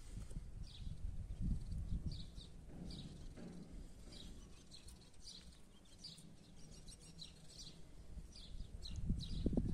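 Small birds chirping, short high calls repeating every fraction of a second, over a low rumble that swells in the last second.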